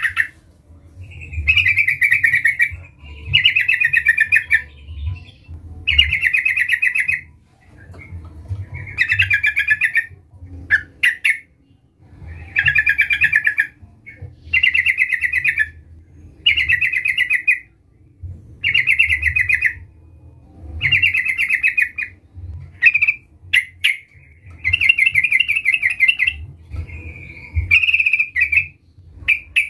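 Yellow-vented bulbul (trucukan) singing, a short bubbling warbled phrase repeated every one to two seconds, over a low rumble.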